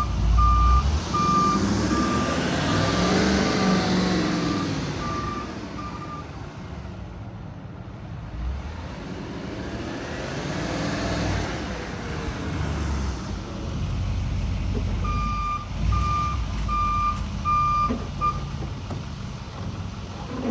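Chevy Silverado 4500HD service truck with a Duramax V8 turbo-diesel, driven in reverse and forward. Its back-up alarm beeps steadily, about two beeps a second, for the first six seconds and again briefly about fifteen seconds in. The engine rises and falls in pitch twice in between as the truck accelerates.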